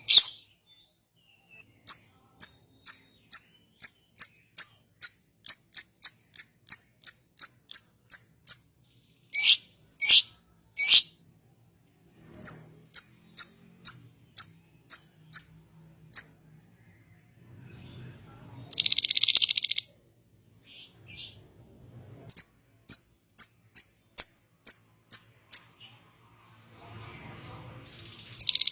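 Songbird calls: runs of short, sharp, high chirps repeated about twice a second, with three longer louder notes around the middle, broken by a harsh buzzy burst about two-thirds of the way through and again at the very end.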